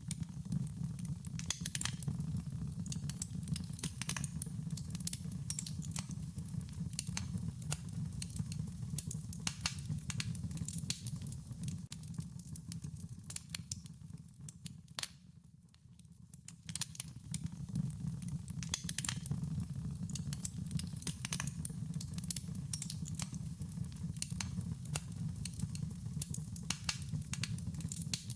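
Wood fire crackling: dense, irregular pops and snaps over a low steady rumble of burning flames. Both die down briefly about fifteen seconds in, then pick up again.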